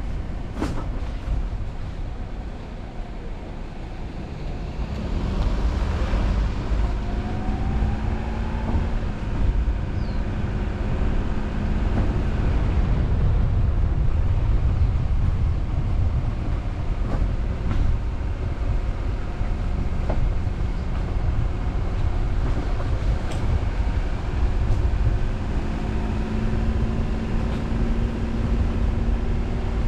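Car driving, heard from a car-mounted camera: a steady low engine and road rumble. It dips briefly, then grows louder about five seconds in as the car picks up speed, with a faint engine note rising in pitch.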